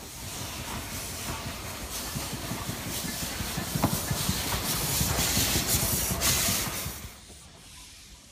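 A narrow-gauge Beyer Peacock steam locomotive, No.12 Hutchinson, releasing steam in a loud hiss over a low rumble. The hiss builds for several seconds, with one sharp click about four seconds in, and cuts off about seven seconds in.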